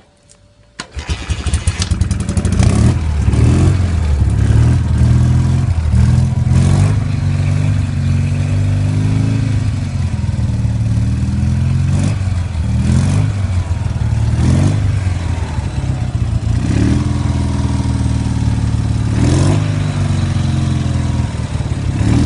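Classic BMW motorcycle engine kick-started: it catches about a second in and settles to a running idle. The throttle is blipped again and again, so the revs rise and fall briefly every couple of seconds.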